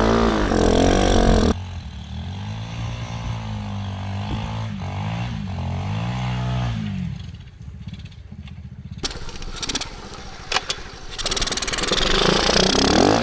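A small engine revving up and down over and over, its pitch rising and falling, after music cuts off about a second and a half in; a few sharp knocks follow, and louder steady noise comes in near the end.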